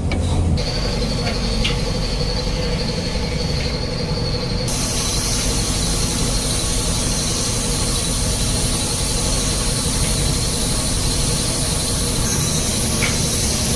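A woodworking machine running steadily with a high squealing whine; the high pitch grows stronger about five seconds in.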